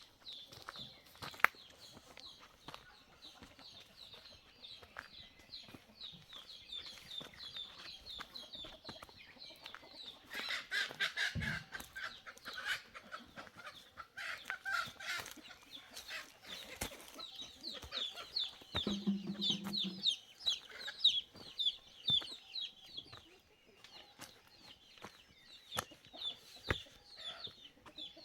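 Birds calling: fast, repeated high chirps run on, with louder, fuller calls about ten seconds in and again a few seconds later, and a short low call near twenty seconds.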